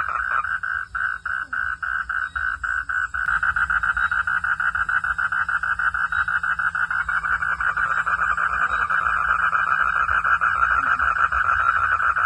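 Frogs calling in a rapid pulsing chorus. For about the first three seconds the calls come as separate pulses, about five a second, then they thicken into a dense, steady trill.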